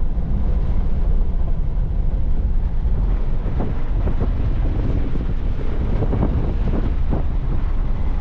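Jeep driving on a backroad: a steady low rumble of engine and road noise, with wind buffeting the microphone.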